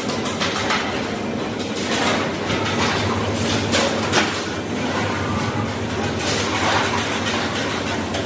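Steady machinery noise with a low hum and scattered clicks and clanks.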